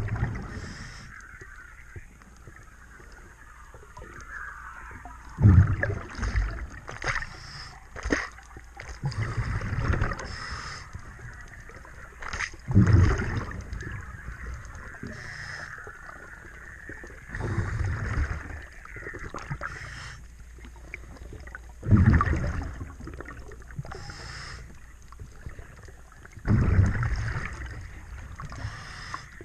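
A diver breathing underwater through a regulator: a rush of exhaled bubbles about every four to five seconds, with a fainter hiss between them.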